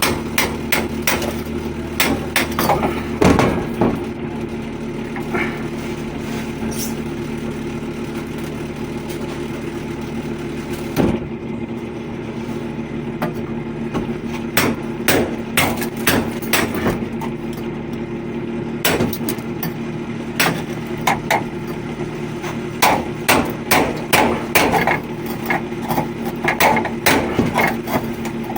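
Irregular sharp taps and knocks of a hammer and hand tools on metal, coming in clusters, over the steady hum of running machinery.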